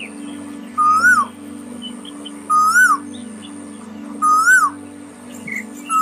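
A bird call repeated three times at an even pace, each a short whistle that rises and then falls, with a thin high chirp above it, over a steady low music drone.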